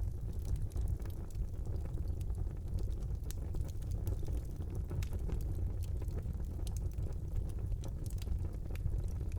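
Wood fire burning in a fireplace: a steady low rumble of the flames with scattered sharp crackles and pops at irregular intervals.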